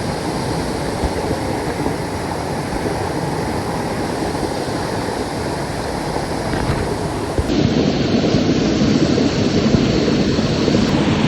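Steady rush of falling water from a waterfall. About seven and a half seconds in, it cuts abruptly to a louder, deeper rush.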